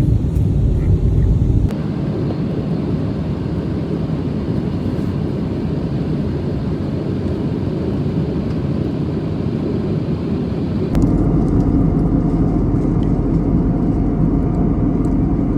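Airliner cabin noise in flight: the steady rush of engines and airflow heard from a passenger seat. The tone and level shift abruptly twice, about two seconds in and again near eleven seconds.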